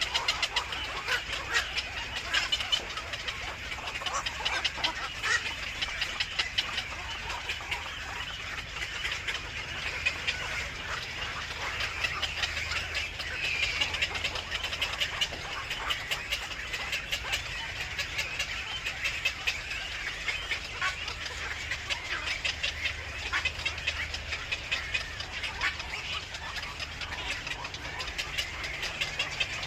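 Birds calling with many short, rapid chirps that run on without a break.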